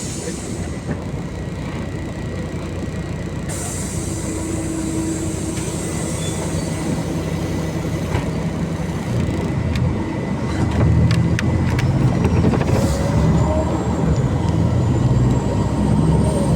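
MAZ-203 city bus heard from inside the cabin while riding: steady diesel engine and road noise, the engine growing louder about ten seconds in as it pulls harder. A few sharp clicks and rattles come through around the middle.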